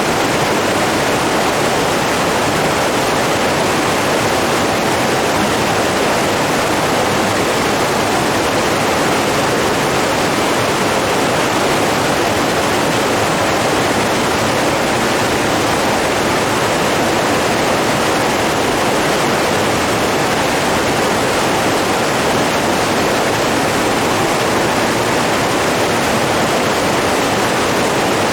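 Running water rushing steadily: a dense, even wash with no individual splashes or changes.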